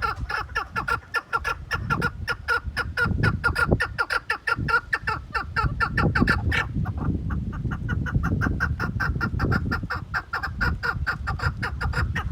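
Chukar partridge calling: a fast, even series of short clucking notes, about six a second, that briefly breaks and picks up again a little past the middle.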